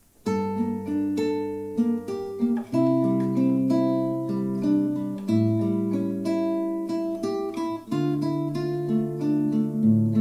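Acoustic guitar playing a melody over changing chords, notes plucked one after another, starting just after the beginning.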